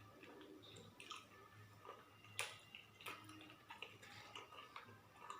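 Faint wet chewing and mouth sounds of a person eating, with scattered small clicks and smacks; one sharper click comes about two and a half seconds in.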